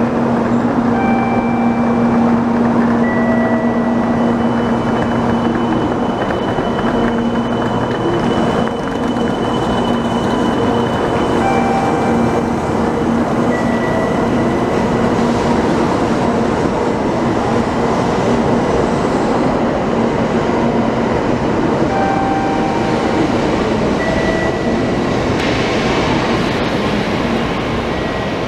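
Shinkansen bullet train pulling out of a station platform: a steady, loud rush of the cars moving past, with scattered short tones over it.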